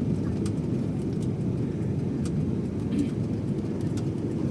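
Steady low drone of a passenger jet's engines and airflow heard inside the cabin in flight, with a few faint clicks.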